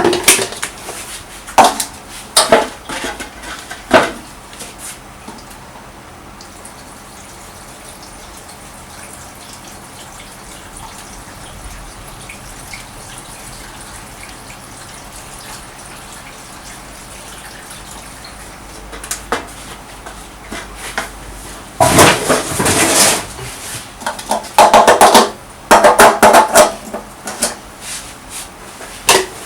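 Metal clanks and knocks of handling a Honda Dio ZX scooter, then near the end a short run of loud rasping bursts from its two-stroke engine being kicked over. The engine does not catch and run.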